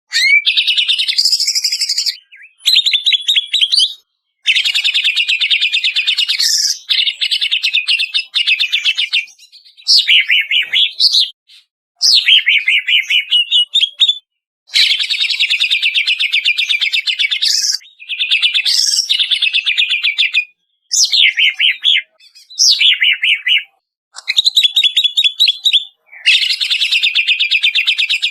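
Greater green leafbird (cucak ijo) singing loudly in repeated phrases of rapid notes, each a second or more long with brief pauses between. Some phrases include quick rising or falling sweeps.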